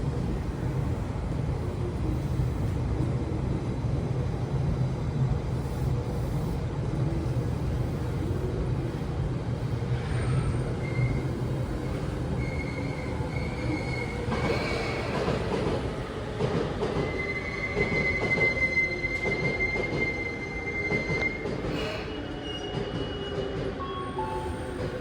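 Tobu Noda Line electric train arriving and braking at a station platform: a steady low rumble, then from about ten seconds in high-pitched wheel and brake squeals, one long squeal held for several seconds in the second half.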